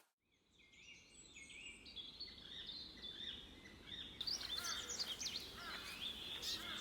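Several songbirds chirping and singing, many short quick notes overlapping; the sound fades in from silence within the first second and grows busier.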